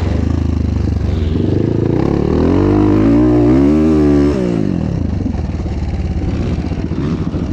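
Dirt bike engine running on a motocross track: the revs climb and it gets louder from about two seconds in, then the throttle comes off abruptly a little after four seconds and it drops back to a lower, steady run.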